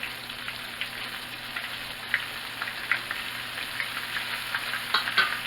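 Flour-and-cornstarch-coated chicken livers frying in hot vegetable oil and butter, freshly dropped into the pan: a steady sizzle with scattered crackles and pops, a few louder pops near the end.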